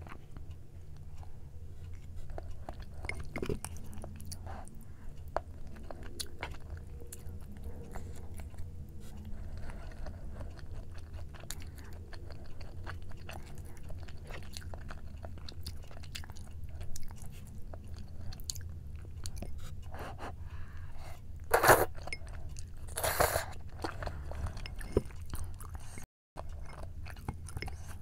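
Close-up chewing of jjimdak (Korean braised chicken): soft wet mouth sounds and many small clicks over a low steady hum, with two louder noises about three-quarters of the way through.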